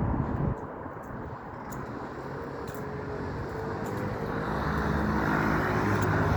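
A road vehicle approaching, its engine hum and tyre noise growing steadily louder. A low rumble from an earlier vehicle dies away about half a second in.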